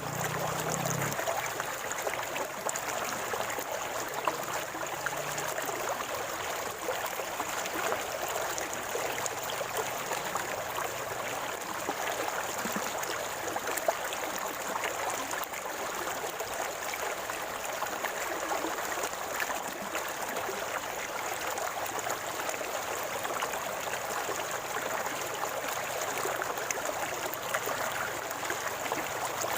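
River water flowing over stones, gurgling and trickling steadily.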